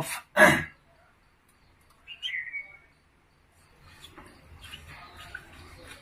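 A single short bird chirp, gliding slightly downward, about two seconds in, just after a last spoken word. Faint scratchy rustling follows in the last couple of seconds.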